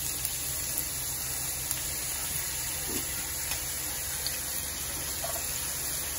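Chopped raw potato pieces sizzling in hot cooking oil in a frying pan as they are added: a steady hiss with a few faint crackles.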